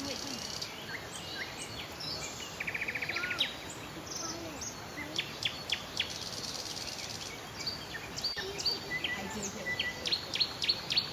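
Several birds chirping and calling: a quick rattling trill about three seconds in and runs of short, sharp, high chirps, over a steady background hiss.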